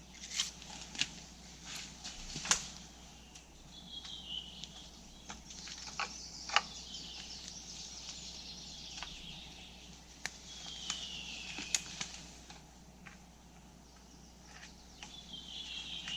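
Scattered knocks and snaps of dry wooden poles and branches being handled and set in place for a lean-to frame, with rustling. A songbird sings a short falling phrase three times, a few seconds apart.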